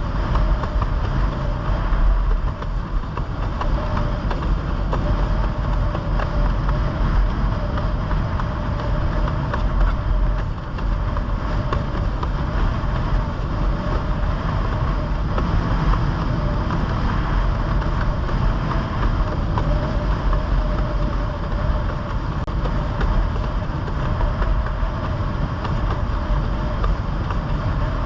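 A motorboat engine running steadily, a constant whine over a low rumble, with wind buffeting the microphone and water noise.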